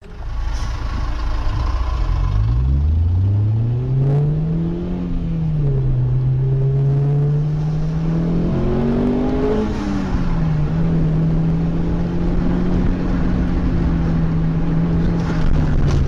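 Car engine accelerating through the gears: its pitch climbs, drops at gear changes about five and ten seconds in, then holds steady at cruising speed.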